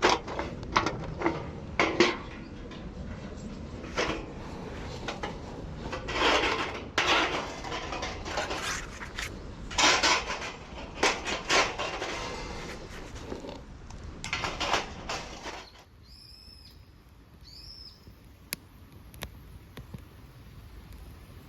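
Light metal parts of a Belmont TABI titanium fire pit clinking and clattering as it is assembled. About 16 seconds in the clatter stops and gives way to a quieter stretch with two short high chirps.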